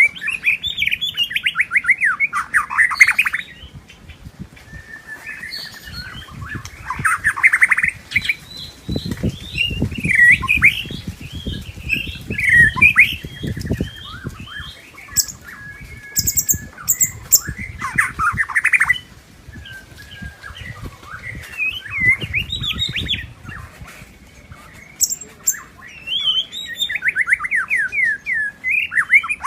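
White-rumped shama singing: a run of varied, rich whistled phrases and rapid trills, in bouts with short pauses between. A low rustling noise sits under the song about nine to fourteen seconds in.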